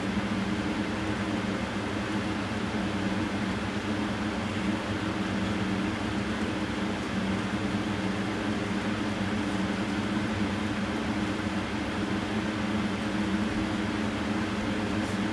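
Steady mechanical hum and hiss, with a low drone that holds one pitch throughout.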